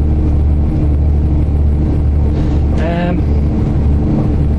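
Steady low drone of a passenger train running, heard from inside the carriage, with a brief voice about three seconds in.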